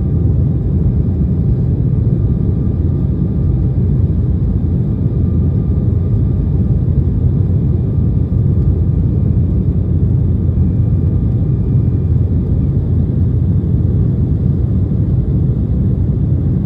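Steady cabin noise of a Boeing 737 in its climb after takeoff: an even low rumble of jet engines and airflow, with a faint steady whine above it.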